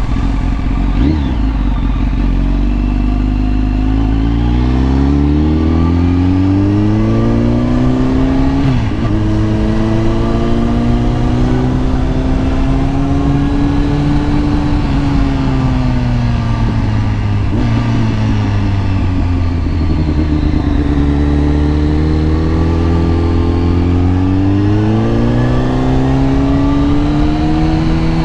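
Kawasaki ZX-10R's inline-four engine under way, revs climbing steadily then dropping sharply at a gear change about nine seconds in. The revs then hold, ease off to a lower steady note, and climb again near the end.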